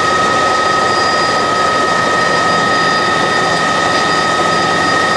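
Helicopter turbine engine and rotor running: a steady high-pitched whine over an even rushing noise.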